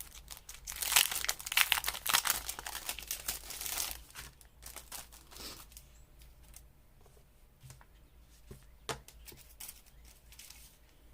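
Paper rustling and crinkling as sheets and cut-out pieces are handled, busiest in the first few seconds, then thinning to a few scattered light taps and clicks.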